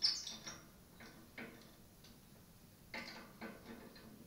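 Metal tools clicking against a bicycle wheel hub: a cone spanner and wrench on the bearing cone and locknut while the cone is being adjusted. There is one sharper click at the start, then several faint, irregular ticks.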